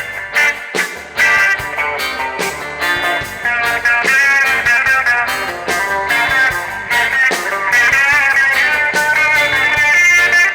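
Live reggae band in an instrumental break, with an electric guitar lead over bass and drums and no singing.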